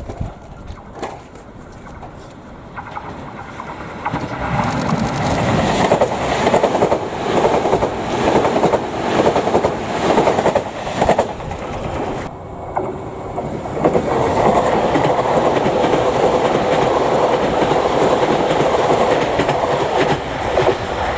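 Electric commuter train passing on the Chikuhi Line. It builds up from about four seconds in, its wheels clatter rhythmically over rail joints, and later it settles into a steadier rolling rumble with a held tone.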